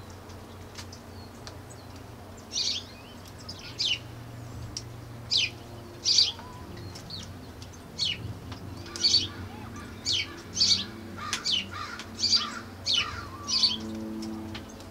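Small birds chirping: short, high, downward-sliding chirps repeated irregularly, coming more often in the second half, over a faint low steady hum.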